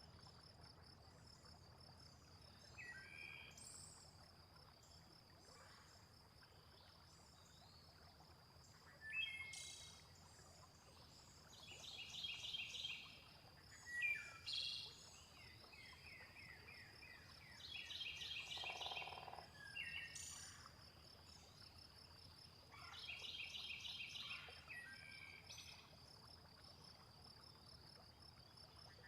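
Faint nature soundscape: a steady, high insect trill runs throughout while birds chirp and trill at intervals, with louder bursts of calls around the middle and near the end.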